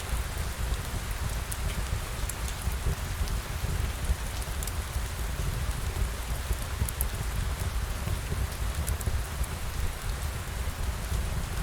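Steady rain, an even wash of noise with a deep low rumble underneath and scattered sharp drop ticks.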